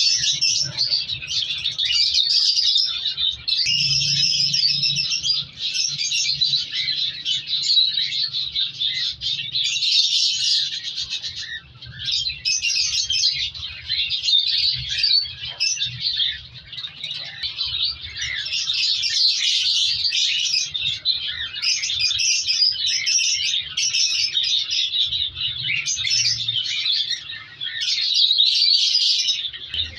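Many caged birds chirping and calling without pause, their voices overlapping.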